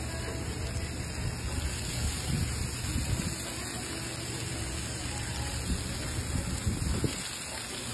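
Oyster omelette sizzling on a flat griddle while metal spatulas turn it, with a few brief scrapes and a steady low rumble underneath.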